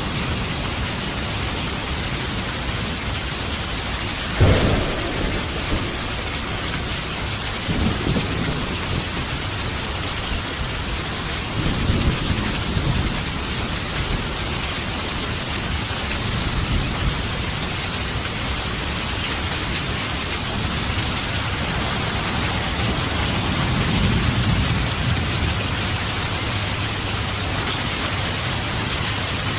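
Steady heavy rain with thunder. A sharp clap of thunder comes about four seconds in, the loudest moment, followed by low rolling rumbles of thunder at about eight, twelve and twenty-four seconds.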